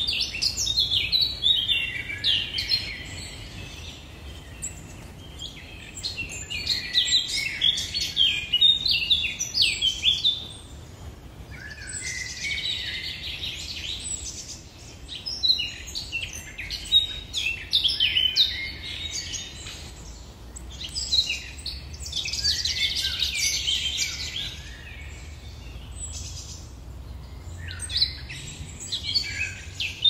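Songbirds singing in repeated phrases of quick high notes, each phrase a few seconds long with short pauses between, over a faint low background rumble.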